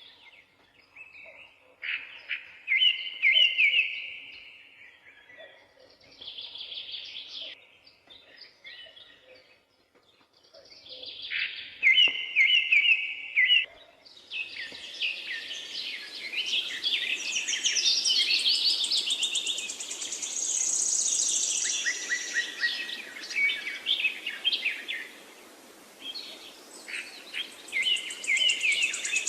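Several songbirds chirping and singing in short repeated phrases. About halfway through a denser chorus of calls sets in over a steady background hiss.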